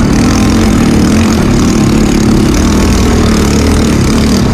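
Trail motorcycle engine running steadily at low revs, loud and close to the microphone.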